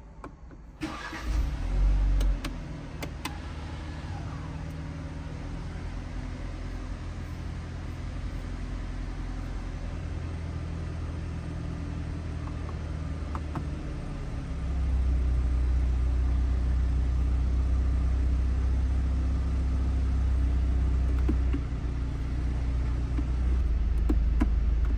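BMW 420i's 2.0-litre turbocharged four-cylinder engine starting: it catches about a second in with a brief flare in revs, then settles into a steady idle. About halfway through it gets louder for several seconds, drops back, and rises again near the end.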